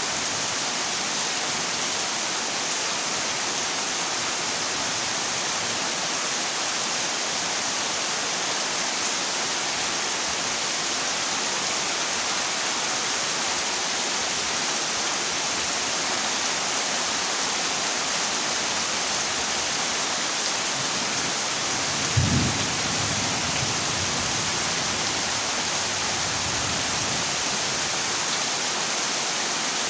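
Heavy rain drumming steadily on a corrugated zinc roof, with a short low thunder rumble about two-thirds of the way through.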